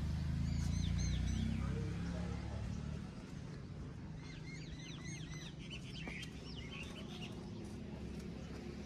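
An engine idling with a steady low hum, a little louder for the first two and a half seconds. Small birds chirp over it in two bouts of quick, arching chirps.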